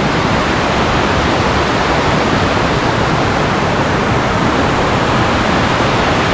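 Waterfall falling onto rock close by: a loud, steady rush of water.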